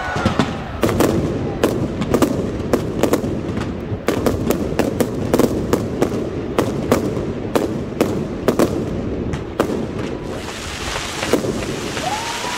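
Fireworks going off in a rapid, irregular barrage of sharp bangs, a few a second, over a constant crackling hiss. The bangs thin out near the end.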